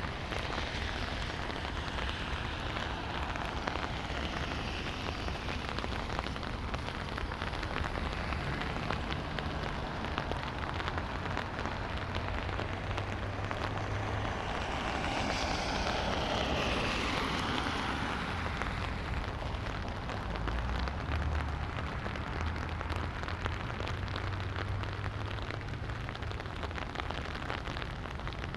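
Light rain falling, a steady patter of drops. About halfway through, a broad whooshing swell rises and falls away over a few seconds, like a car passing on the wet road.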